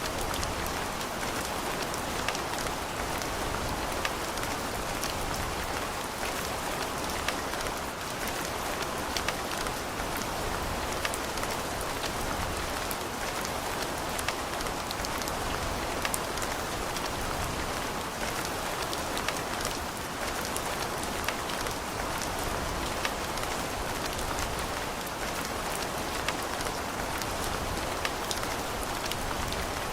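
Steady rain falling and pattering on hard surfaces, with many individual drops ticking through a constant hiss.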